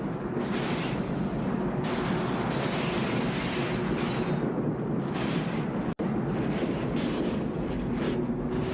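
Tornado wind rushing steadily, with a faint low howl running through it. The sound cuts out for an instant about six seconds in.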